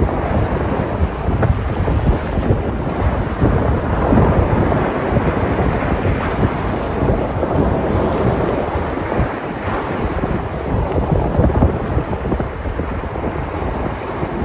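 Sea surf breaking and washing on a shore in a steady, continuous rush, with wind buffeting the microphone and adding a low rumble.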